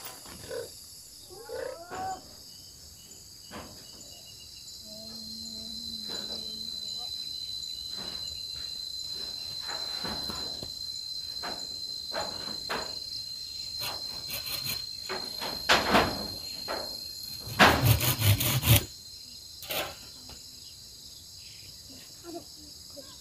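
Insects singing in a steady high-pitched drone, with scattered sharp knocks from the zinc-roof work and a quick run of louder knocks about three quarters of the way in.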